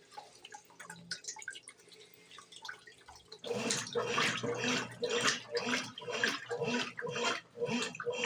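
Brastemp BWG11 washing machine with a load of bed and bath linens: faint dripping and trickling water, then about three and a half seconds in the wash agitation starts, the water sloshing in rhythmic strokes about twice a second.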